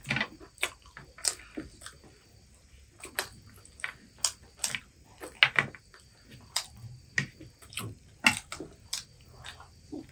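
People chewing and biting crispy fried chicken lollipops, with irregular short crunches and mouth smacks.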